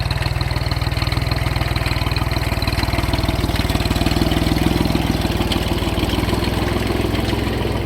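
Tractor engine running steadily with an even, rapid low chug.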